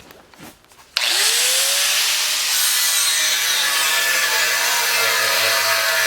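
A power tool, most likely an angle grinder, starts about a second in, its whine rising as the motor spins up, then runs loud and steady as it cuts and grinds steel to notch a frame rail.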